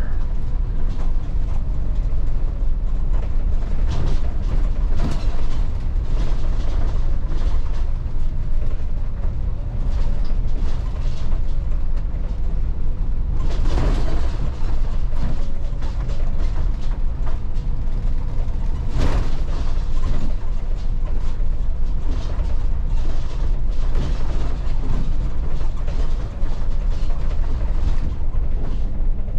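Inside a moving Volvo 8900 diesel bus: the steady low drone of engine and road, with the interior panels creaking and rattling throughout. Two louder knocks, about halfway through and again some five seconds later, as the bus goes over bumps.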